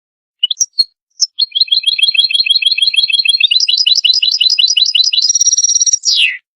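European goldfinch singing: a few short call notes, then a fast twittering trill that steps up in pitch about halfway through, a buzzy held note, and a final falling note.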